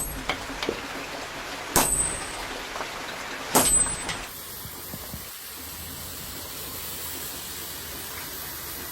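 Hand hammer striking a hot khukuri blade on an anvil: three blows about two seconds apart, each with a short metallic ring. About halfway through the blows stop and a steady hiss is left.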